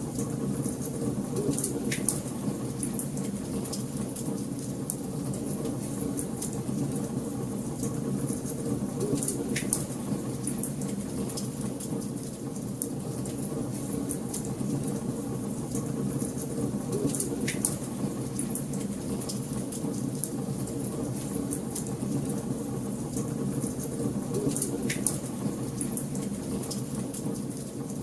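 Wood fire crackling in a fireplace: a steady low rush of flames with many small crackles and a louder pop about every seven or eight seconds.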